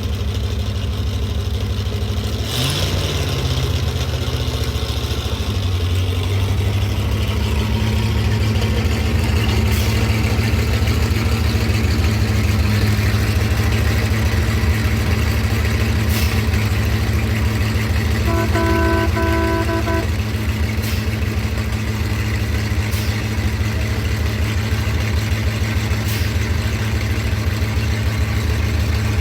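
C60 dump truck's engine running steadily, freshly revived after sitting four to five years, with a short rev about two and a half seconds in. A horn honks for about a second and a half about two-thirds of the way through.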